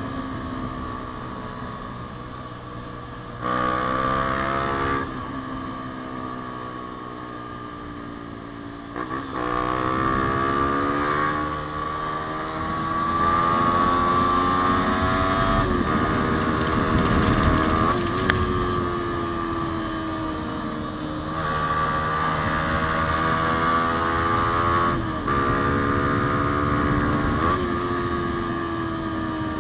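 Yamaha Sniper 150's single-cylinder four-stroke engine through a JVT aftermarket exhaust, ridden under way. The engine note climbs and falls again and again as the throttle is opened and closed, with short dips between climbs as it changes gear.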